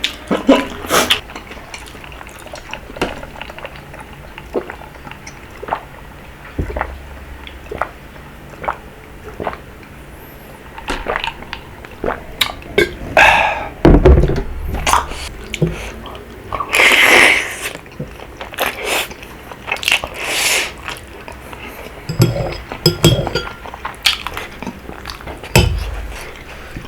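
Close-miked mukbang eating of rabokki: wet chewing and mouth clicks, with a few longer slurps of noodles and the odd tap of a utensil on the bowl.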